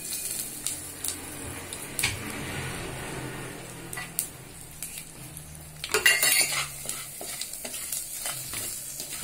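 Spice powders sizzling in hot oil in a clay pot. About six seconds in there is a brief clatter of sharp taps, and near the end a wooden spatula scrapes as it stirs the masala.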